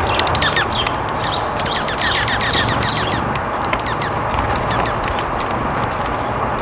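Small songbirds chirping, in quick runs of short falling chirps, over a steady rushing background noise.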